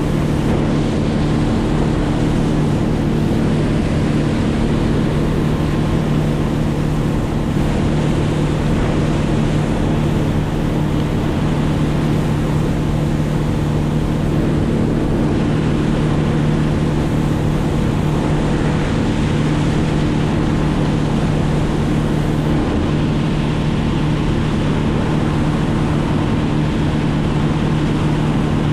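Motor running at a steady, unchanging speed, with wind and rushing water or air noise over it.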